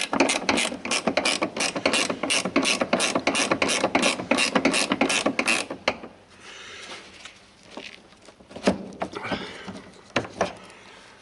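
Ratchet wrench cranked quickly, a rapid even run of clicks at about five a second for some six seconds, then a few separate clicks and knocks.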